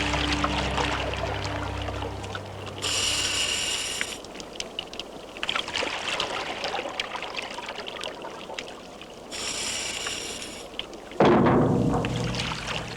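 Underwater water noise with two bursts of bubbling hiss, the first about three seconds in and the second near ten seconds. A sudden loud rush of water follows a little after eleven seconds. A low music chord fades out during the first two seconds.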